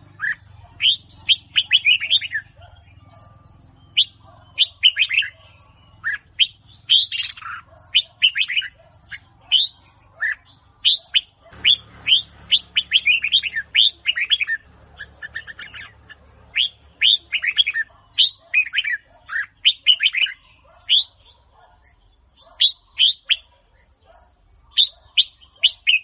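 Red-whiskered bulbul singing: quick phrases of short, falling whistled notes, repeated with brief pauses between them.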